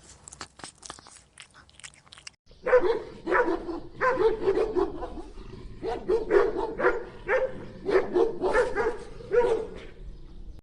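Dog barking repeatedly, about two short barks a second, after a couple of seconds of faint clicks.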